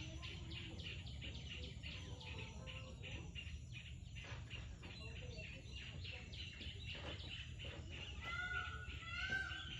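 Birds chirping: a fast, dense run of high chirps, then from about eight seconds in a series of short arched call notes repeated about twice a second, over a steady low hum.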